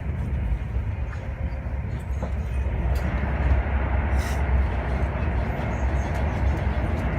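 Passenger train running, heard from inside the carriage: a steady low rumble with rail noise, growing a little louder about three seconds in.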